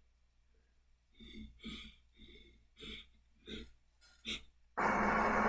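A run of about seven short breaths roughly half a second apart, then a loud steady noise that starts suddenly near the end.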